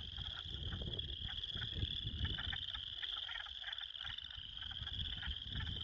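Frogs calling in chorus: a steady, high pulsing trill with shorter repeated calls over it, above a low rumble.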